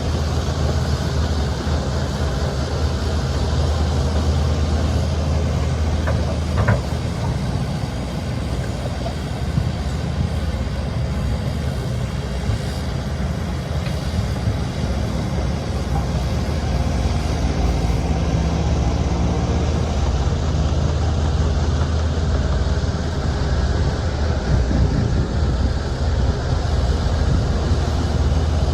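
Shantui crawler bulldozer's diesel engine running steadily at working revs, with a brief sharp click about seven seconds in and a short wavering whine a little past the middle.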